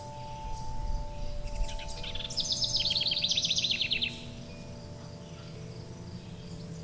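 A songbird singing a fast trill of rapidly repeated high notes for about two and a half seconds, with short high chirps from other birds. Under it are soft sustained tones at a few fixed pitches.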